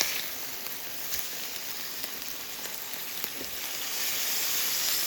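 Burger patties frying in a pan, a steady sizzle with small crackles that grows a little louder near the end.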